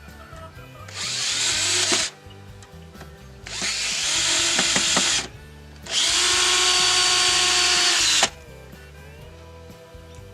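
Power drill run in three bursts, each winding up in pitch and then holding at speed, the last and longest cutting off suddenly near the end. Background music plays underneath.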